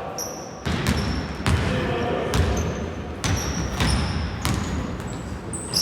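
Basketball bouncing on the court floor about once a second, with short high squeaks of sneakers on the court between the bounces.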